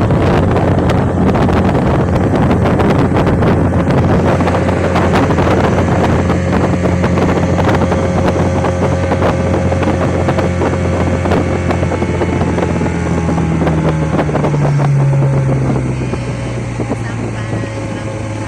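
Motorboat engine running steadily, with wind noise on the microphone. Its pitch falls and the sound drops in level about three-quarters of the way through as the engine is throttled down.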